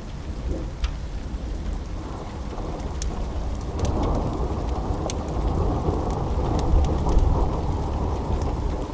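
Steady rain with a low rolling thunder rumble that swells about four seconds in and stays loud, with scattered sharp ticks.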